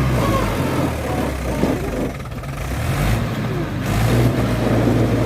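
Mahindra 475 DI tractor's diesel engine running steadily. Its note eases off about two seconds in and builds up again toward the end.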